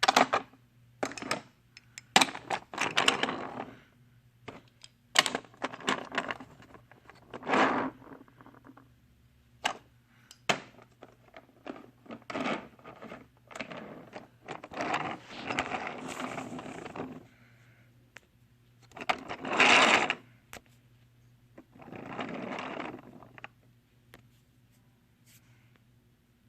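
Toy trains and track being handled: a run of irregular scrapes, rattles and clicks, some lasting a second or two, over a faint steady hum. It thins out near the end.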